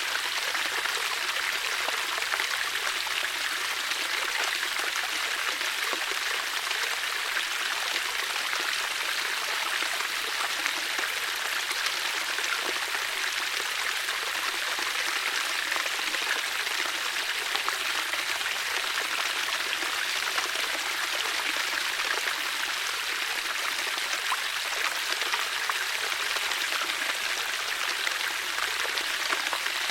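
Flowing water, a steady rushing and splashing like a stream, with no pauses or changes.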